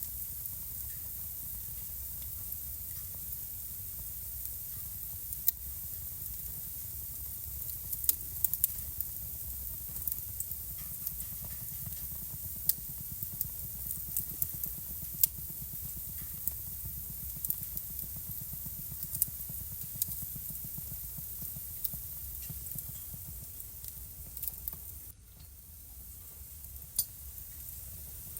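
Wood fire burning in a home fireplace: a steady hiss and low rumble with irregular sharp crackles and pops. The hiss dips suddenly about three-quarters of the way through, then comes back.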